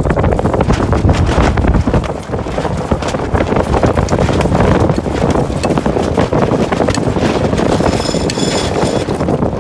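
Strong wind buffeting the microphone on a sailboat racing in a 14 to 24 knot breeze: a heavy rushing rumble with many small knocks and splashes mixed in. A high, pulsing whistle comes in near the end.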